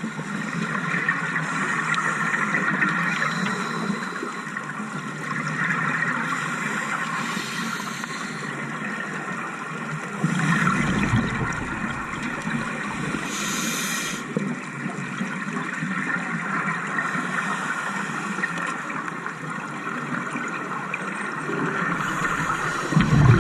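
Underwater scuba breathing through a regulator: a steady wash of water noise, with a louder gush of exhaled bubbles about ten seconds in and a short hiss of inhalation soon after.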